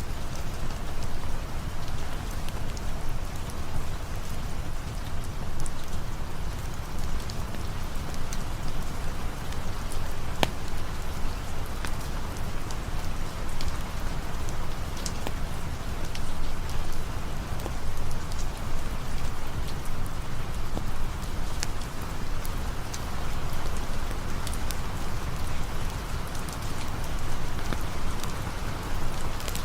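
Steady rain falling, with scattered sharp ticks of drops over a deep, even rumble.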